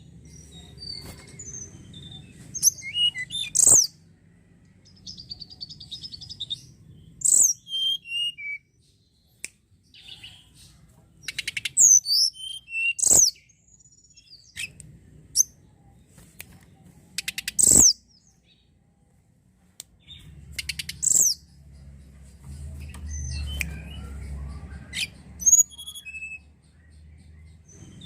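Tledekan gunung songbird singing in bursts of high, sharp chirps and whistled notes, with a few rapid trills and several loud, abrupt notes, over a low background hum.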